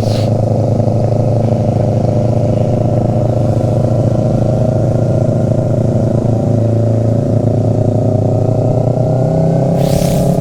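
Motorcycle engine running steadily at low revs, its pitch shifting a little with the throttle and rising slightly near the end.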